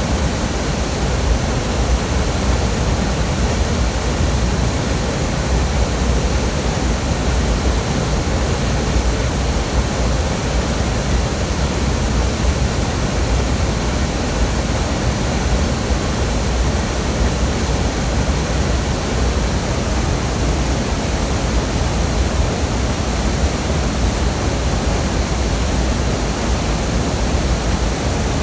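Waterfall: a steady, loud roar of falling water, heaviest in the low rumble, unchanging throughout.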